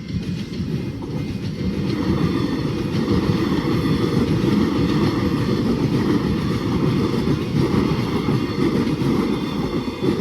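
Electric suburban passenger train passing over a level crossing: a steady rumble of wheels on the rails that builds over the first couple of seconds and then holds.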